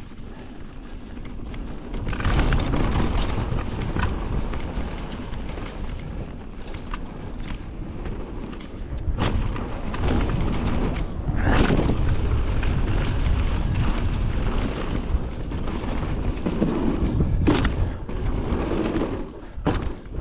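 Mountain bike descending a rough dirt trail, with wind buffeting the microphone and tyres rumbling over the ground. Sharp clunks from the bike hitting rocks and roots come several times, surging with the terrain.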